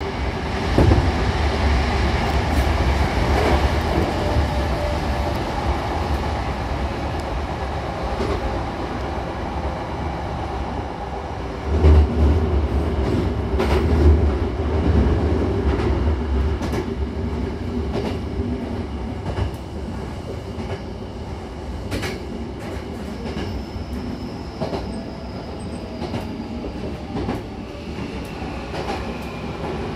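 Hankyu Takarazuka Line electric train heard from inside the carriage: a steady low rumble of wheels on rails, with scattered sharp clicks over rail joints. From about two-thirds of the way in it grows quieter as the train slows into the station, and a faint high whine sounds near the end.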